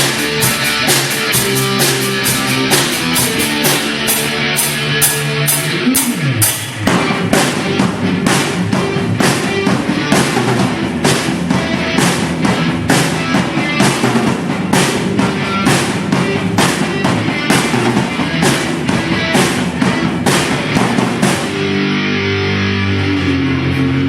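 Live rock band playing an instrumental passage: electric guitars over a drum kit with a steady beat. About seven seconds in the drums and guitars come in harder and denser, and near the end it drops back to a lighter guitar figure.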